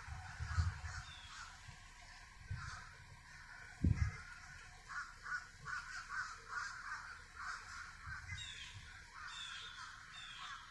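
Crows cawing, a quick run of short harsh caws in the middle, with a low thump about four seconds in.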